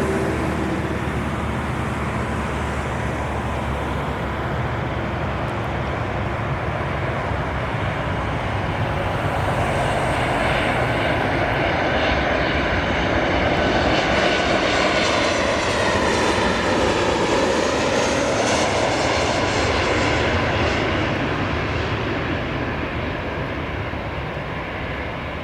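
Airliner's engines passing close by: a steady rushing roar that swells to its loudest about halfway through, with a whining sweep that dips and rises again, then slowly fades.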